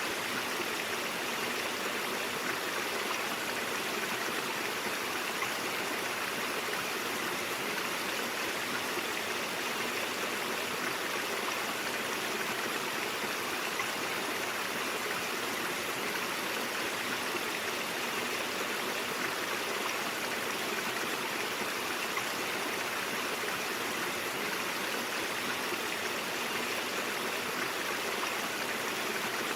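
A brook's water flowing steadily, an even, unbroken rushing and gurgling.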